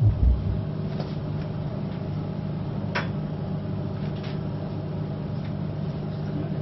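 Steady low machine hum with a few faint clicks, and a couple of low thumps at the very start.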